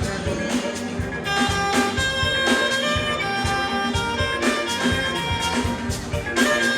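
Fuji band music playing: a regular percussion beat under held melody notes.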